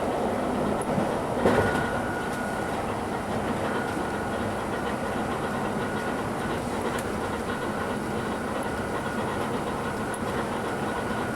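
British Rail Southern Region 2EPB (Class 416) electric multiple unit running, with a steady rumble of wheels and traction heard from on board. A single knock comes about a second and a half in, and a faint steady whine runs under the rumble after it.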